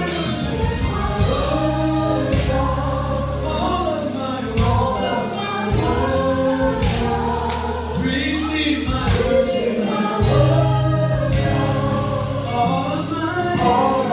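Gospel choir singing a praise song with band accompaniment: sustained bass notes and a steady drum beat under the voices.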